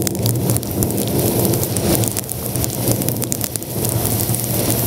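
Rain hitting a moving vehicle, many small sharp ticks over a steady low drone of engine and road noise.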